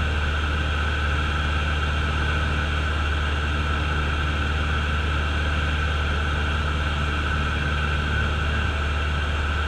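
Cessna light aircraft's piston engine and propeller running steadily: a constant drone with a strong low hum and a higher whine band, unchanging throughout.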